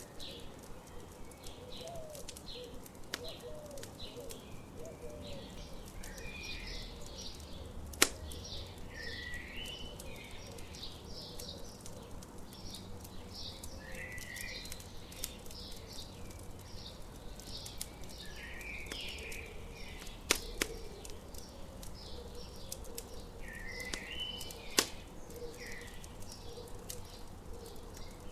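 Songbirds chirping in repeated short phrases over a crackling campfire, with a few sharp pops from the fire: the loudest about eight seconds in, others near twenty and twenty-five seconds.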